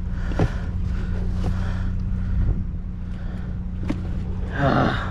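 Vehicle engine idling with a steady low hum, while junk is handled and knocked about in a dumpster, giving several short knocks. A short sound falling in pitch comes near the end.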